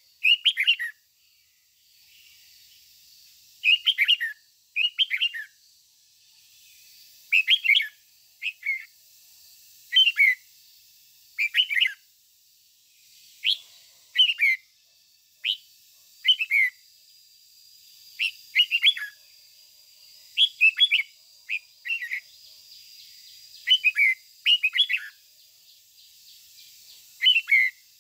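Red-whiskered bulbul singing short, bright phrases of a few quick notes, repeated every second or two.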